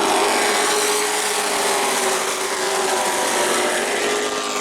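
Race trucks' engines running at speed on the track: a steady, loud drone that holds its pitch.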